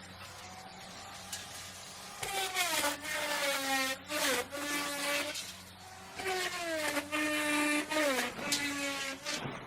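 Electric wood router running, with two louder cutting passes about two and six seconds in. During each pass the motor's pitch sags under load and dips further as the cut ends.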